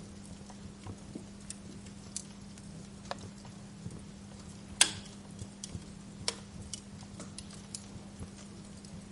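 Wood fire crackling in a fireplace: irregular small snaps and pops, with one louder pop about five seconds in, over a steady low hum.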